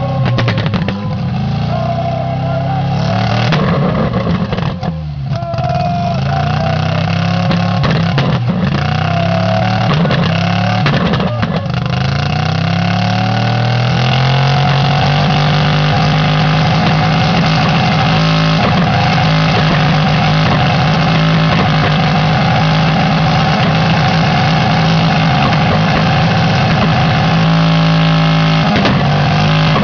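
2.0-litre Peugeot four-cylinder engine revved up and down repeatedly, then held at a steady high speed from about halfway through. It is being run flat out on purpose until it destroys itself.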